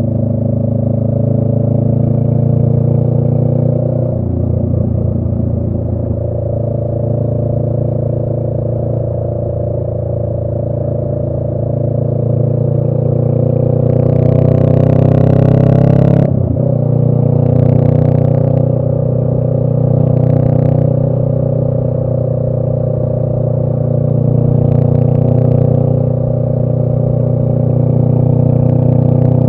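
Honda Rebel 500's 471 cc parallel-twin engine, breathing through a Radiant Cycles Shorty GP aftermarket exhaust, running under way. Its pitch rises steadily for a few seconds past the middle, then drops sharply and settles back to a steady note.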